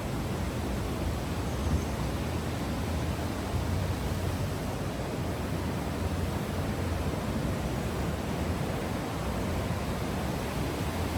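Steady rushing of a fast canyon stream.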